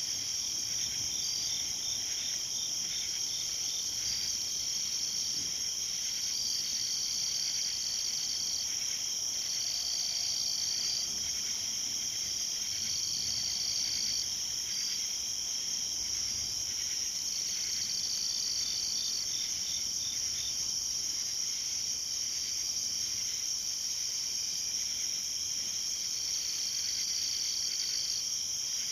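Night-time insect chorus: a continuous high-pitched drone over steady trills. One insect trills in bouts of a second or so, and short runs of rapid chirps, about six a second, come near the start and again about two-thirds of the way through.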